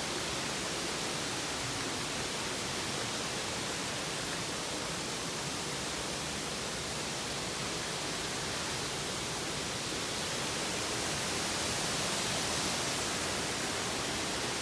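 Waterfall's steady rushing noise, growing slightly louder near the end.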